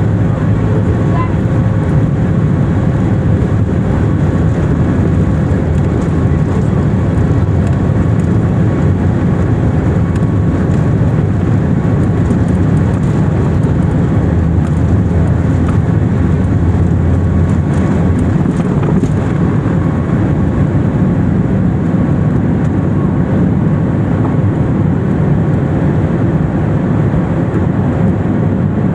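Boeing 737 MAX 8's CFM LEAP-1B jet engines running, heard inside the passenger cabin as a loud, steady low rumble with a faint steady whine above it.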